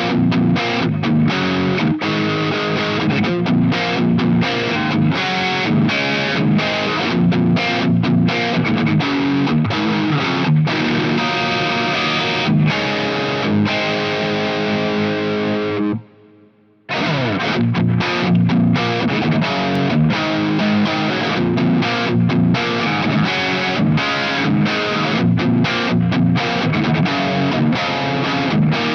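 Covenant Innovator I-STD electric guitar played with distortion in a steady run of picked notes and chords. The playing cuts off abruptly about 16 seconds in and starts again under a second later.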